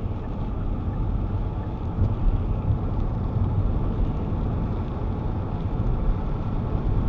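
Steady rumble of a car driving on a wet road in rain, engine and tyre noise heard from inside the cabin.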